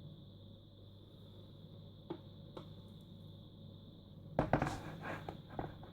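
Quiet room hum with two faint clicks, then a quick run of clattering knocks from about four seconds in, like objects being handled and set down.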